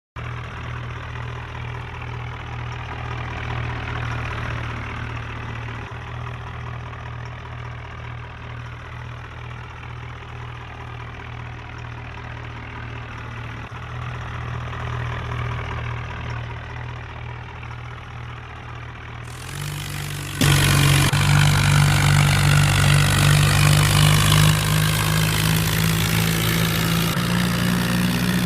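John Deere 5310 tractor's diesel engine running steadily under load. About twenty seconds in it turns suddenly louder, with a higher engine note.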